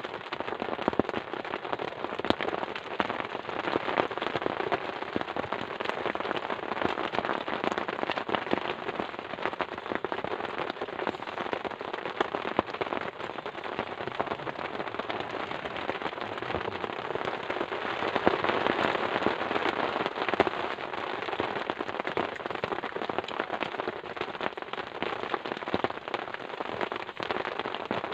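Heavy rain falling steadily: a dense hiss made of many small drop impacts, with no let-up.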